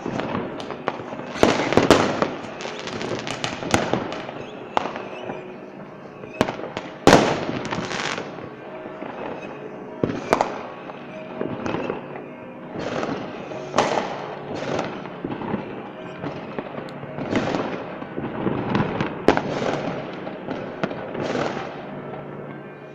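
Fireworks display: a continuous run of shell bursts and crackling, with the loudest bang about seven seconds in.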